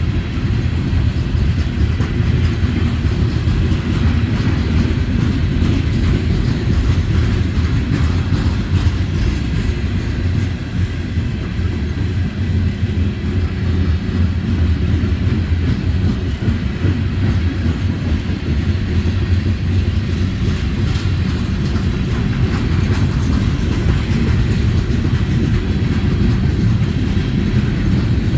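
Freight cars of a Norfolk Southern manifest train rolling past, a loud, steady low rumble of steel wheels on rail.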